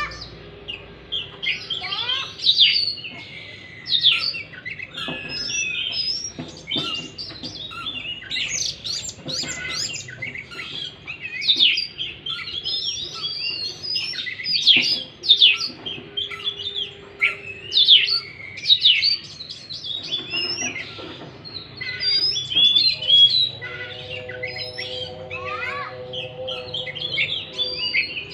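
Oriental magpie-robin (kacer) singing a continuous, varied song of rich whistles, rapid sweeps and chattering notes, with no breaks.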